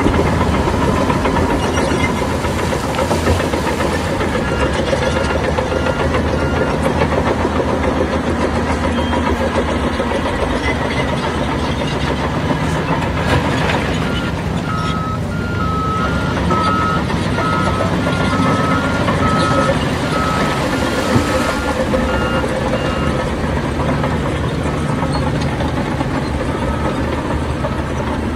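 Heavy diesel construction machinery running steadily, with a back-up alarm beeping at an even pace for a couple of seconds near the start and again through most of the second half, as a machine reverses.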